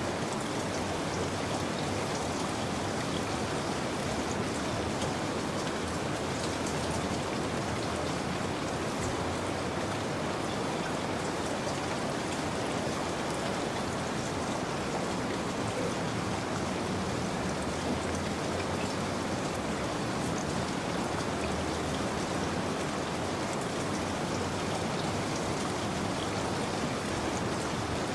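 Steady rain falling, an even hiss with fine scattered drops, unchanging throughout.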